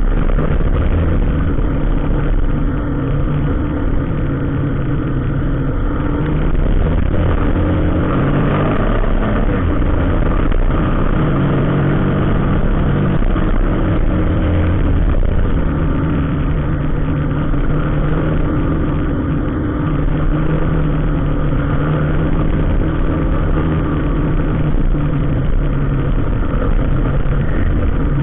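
A motor vehicle's engine running steadily while driving, its pitch rising and falling as the throttle changes.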